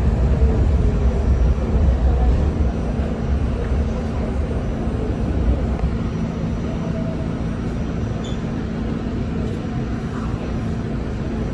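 R68 subway train running underground, with a steady rumble of wheels on the rails and a low motor hum. The rumble eases a little about four seconds in, then holds steady.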